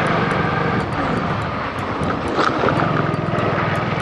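Motorcycle engine running steadily while riding, over a steady rushing hiss.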